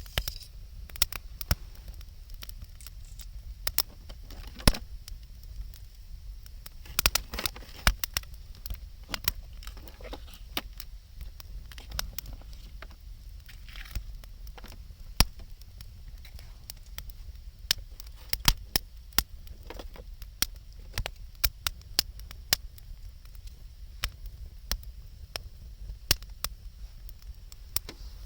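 Wood bonfire crackling, with frequent irregular sharp pops and snaps over a steady low rumble.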